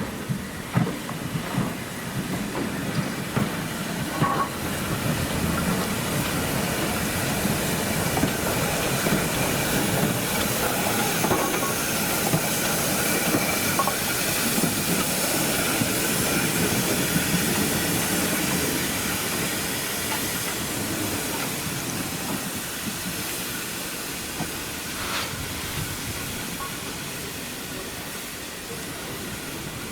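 A train passing on the line, its wheels clattering over the rail joints, growing louder to a peak about halfway through and then fading as it moves away.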